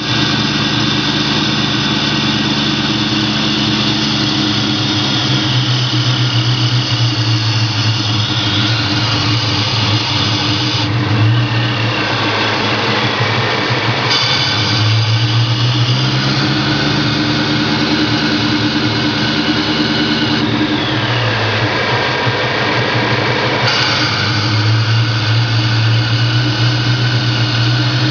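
Supercharged 4.6-litre V8 of a 2003 Mustang Cobra, freshly installed, idling unevenly: its note shifts and settles back twice, once about nine seconds in and again about twenty seconds in. The rough, wandering idle is one the owner suspects comes from a vacuum leak.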